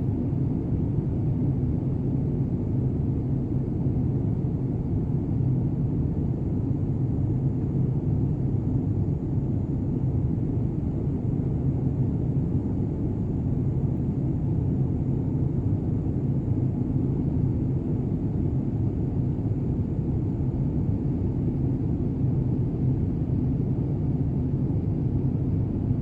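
Steady low rumble of a jet airliner in flight with its Rolls-Royce turbofan engines running, heard from inside the cabin.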